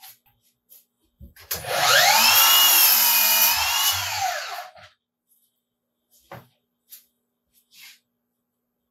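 Power saw spinning up, cutting through wood for about three seconds and winding down, its motor whine rising at the start and falling at the end. A few light knocks follow.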